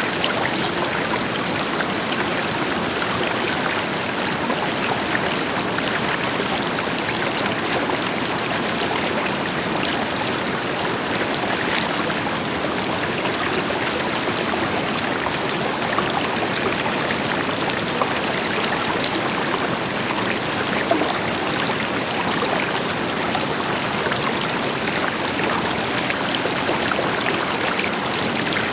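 River water flowing steadily over rocks, a continuous rushing with small splashes, blended with the deeper rush of a waterfall.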